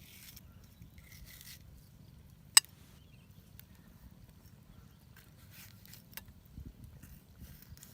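Faint rustling and scraping over a low rumble, with one sharp click about two and a half seconds in and a couple of fainter clicks later.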